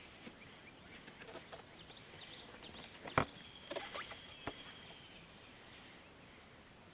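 Light knocks and clicks of the fuel pump and float assembly being handled and fitted into the gas tank, with one sharper knock a little past three seconds in. Small bird calls sound in the background: a quick run of high descending chirps, then a thin high trill for about two seconds.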